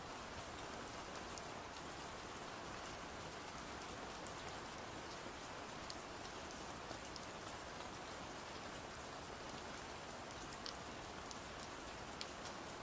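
Steady rain, an even hiss, with scattered sharp little ticks throughout.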